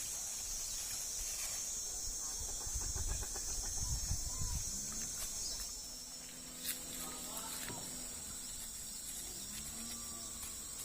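Steady high-pitched buzz of an insect chorus, with a low rumble in the first half and a single sharp click about seven seconds in.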